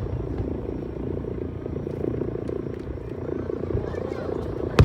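Fireworks display: a steady low rumble of aerial shells bursting and echoing, with one sharp, loud bang near the end.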